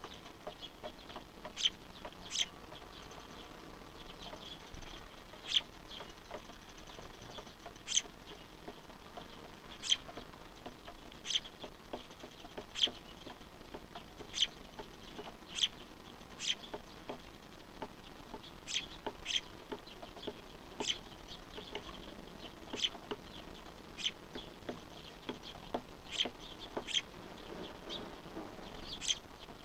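Fledgling bird's short, sharp, high begging calls, repeated irregularly about once a second, sometimes two in quick succession.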